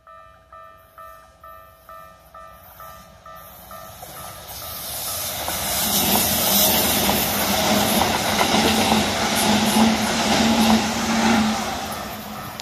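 Japanese level-crossing alarm bell ringing about twice a second, then a Keikyu Series 800 electric train passing close by on the rails. Its noise builds from about four seconds in, carries a steady low hum at its loudest, and fades near the end.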